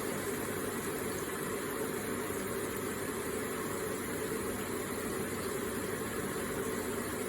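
Electric water feature running: water trickling and splashing in a steady, unbroken wash.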